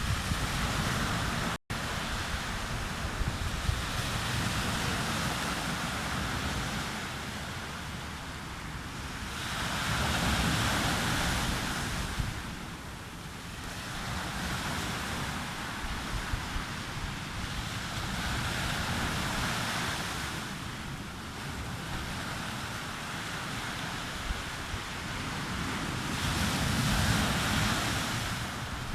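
Sea surf breaking and washing up the beach, swelling and easing every few seconds, with some wind on the microphone. The sound cuts out for an instant a couple of seconds in.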